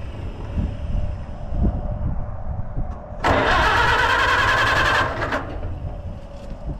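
Allis-Chalmers WD45 tractor engine cranked over on the starter for about two seconds, starting about three seconds in, without firing: there is no spark from the ignition.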